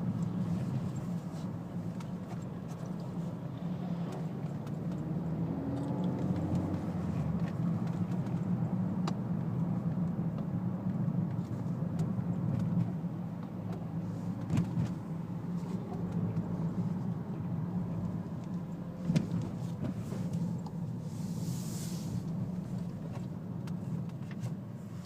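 Ford Focus ST driving, with a steady engine and road hum and scattered light clicks and knocks throughout, one sharper knock about three-quarters of the way through: the rattling and knocking the car makes while driving.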